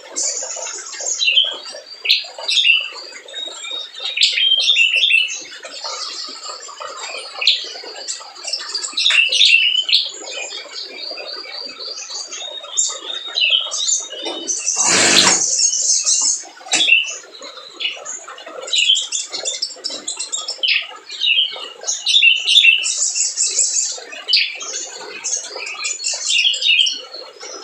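Crimson sunbird singing in a rapid, continuous stream of high, sharp chirps and trills. About halfway through there is one brief, loud noise.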